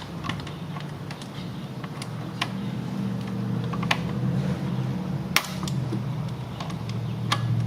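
Scattered sharp clicks and taps of hands working intercooler hoses and clamps loose in a car's engine bay, over a steady low hum that grows slowly louder.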